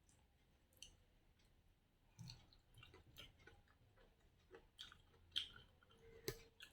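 Close-miked chewing of a mouthful of rice and curry, with soft, scattered wet mouth clicks and smacks and one sharper click near the end.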